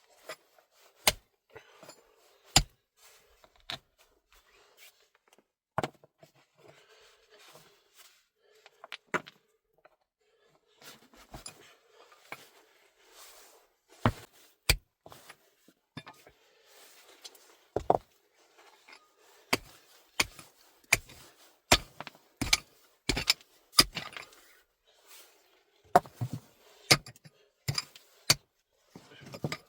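Irregular sharp knocks and taps, coming closer together in the second half, with faint scraping between them.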